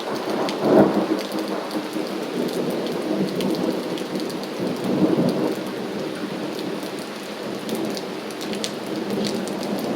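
Steady rain falling, with individual drops ticking, under a continuous low rumble of thunder that swells about a second in and again around five seconds.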